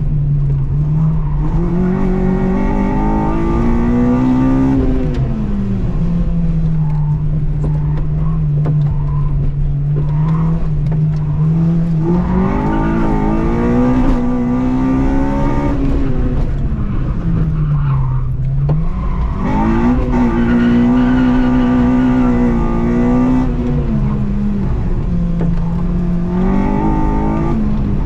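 Honda Civic EP3's four-cylinder engine heard from inside the cabin during an autoslalom run, revving hard through the gears and dropping back four times as the car accelerates between cone sections and slows for turns.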